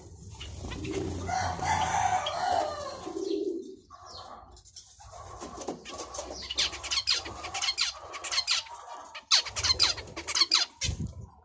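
Birds calling: a long call of about three and a half seconds at the start, then short chirps and a run of clicks, and a quick series of sharp strokes near the end like wings flapping.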